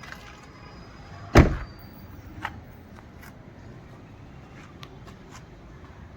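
A car door of a Hyundai i10 being shut with a single solid slam about a second and a half in, followed by a few light clicks.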